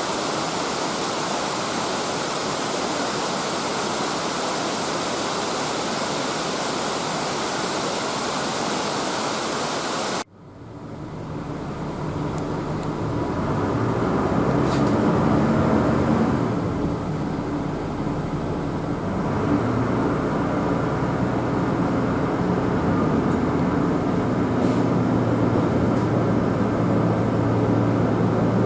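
A waterfall's steady rush, cut off suddenly about ten seconds in. Then a QR 2000 class diesel rail motor runs along the line with a steady low engine hum.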